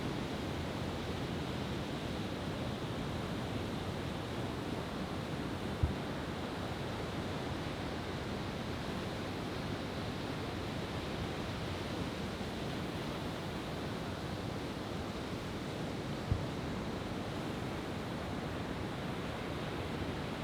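Steady wash of ocean surf, an even rushing noise with no pauses. Two short dull thumps break through, about six seconds in and again about sixteen seconds in.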